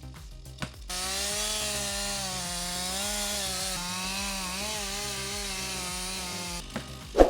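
Two-stroke chainsaw cutting through wood under load, its engine pitch wavering slightly as it bites. It starts about a second in and stops shortly before a sharp knock near the end.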